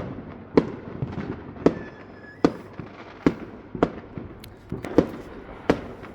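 Fireworks going off: a string of sharp bangs, roughly one every half second to a second, over a continuous crackle of more fireworks further off.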